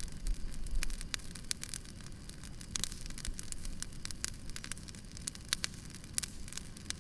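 Wood campfire burning, crackling with irregular sharp pops over a steady low rumble of the flames. A brief low rumble swells under a second in.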